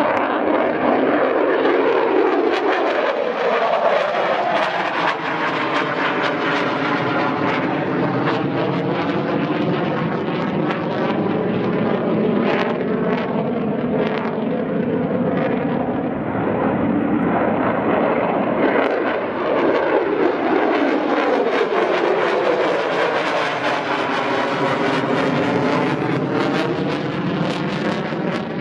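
Military fighter jets flying over, a loud continuous jet noise that sweeps past twice, near the start and again later.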